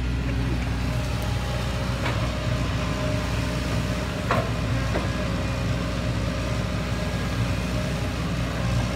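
Heavy diesel engine of an excavator or dump truck running steadily at a constant speed, with a few brief knocks about two, four and five seconds in.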